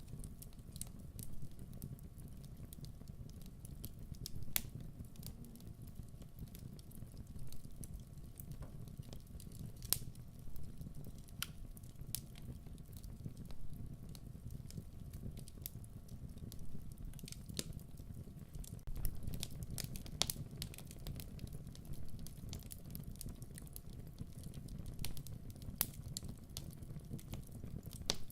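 Wood fire crackling: a steady low rustle of flames with scattered sharp pops and snaps, a few of them louder than the rest.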